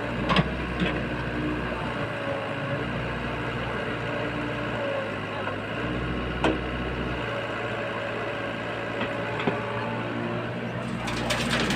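Diesel engine of an earthmoving machine running steadily, with a few short sharp knocks.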